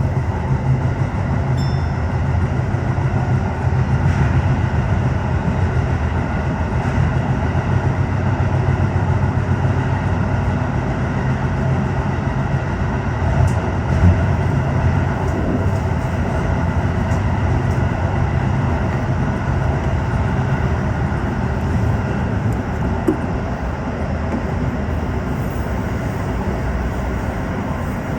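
Tokyo Metro 15000 series train running underground, heard from inside the front car: a steady rumble of wheels and running gear on the rails, with a small knock about halfway through.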